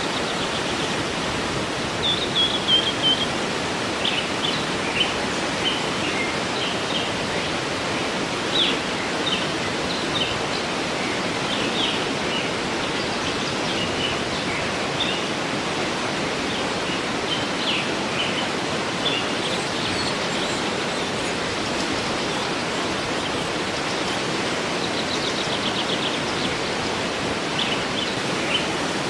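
Waterfall rushing steadily, with small birds chirping and trilling over it, in short high calls scattered through the whole stretch.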